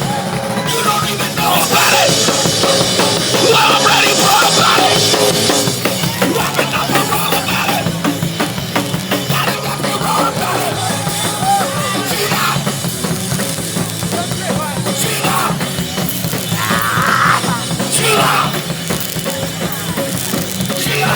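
Hardcore punk band playing live at full volume: distorted guitars, bass and drums, with yelled vocals at times.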